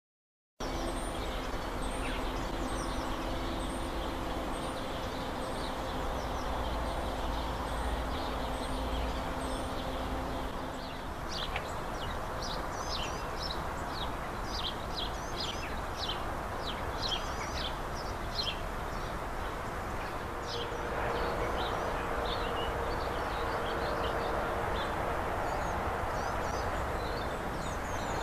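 Birds chirping and calling, short high notes repeating over a steady low hum. About two-thirds of the way in, a broader rushing noise with a faint steady tone builds up under the birdsong.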